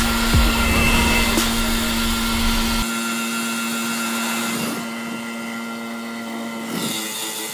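Small motorbike engine running at a steady high whine while riding, with wind buffeting the microphone. The wind rumble drops away about three seconds in.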